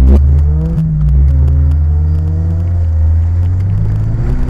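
Off-road 4x4's engine running hard under load, its pitch climbing slowly, then easing off near the end. A sharp thump right at the start.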